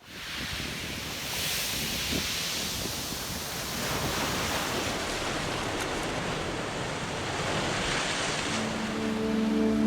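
Waves breaking and washing over a stony shingle beach, the surf swelling and easing. Music comes in near the end.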